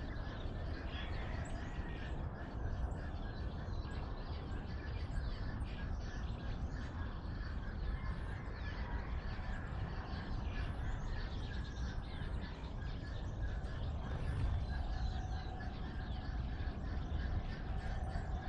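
Several birds chirping and calling in a morning chorus, many short faint notes overlapping, over a steady low background rumble.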